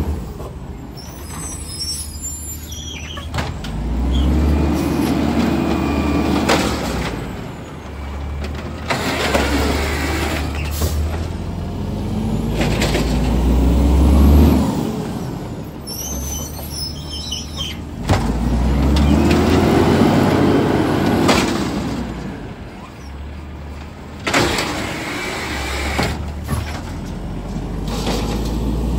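Heavy truck engines rising and falling in several swells, with a few sharp hisses or knocks in between, typical of refuse trucks and air brakes on a street.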